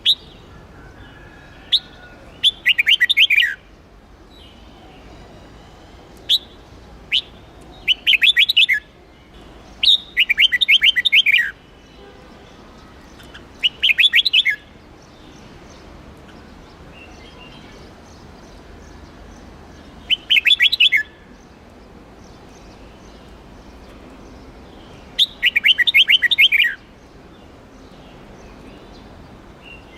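Red-whiskered bulbul of the Huế type singing: six short phrases of quick, fast-changing notes, each about a second long and a few seconds apart, with single sharp chirps between them.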